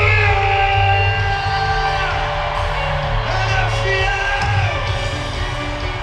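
Live worship music: a singer holds long notes that slide down at their ends, over a band with a heavy bass.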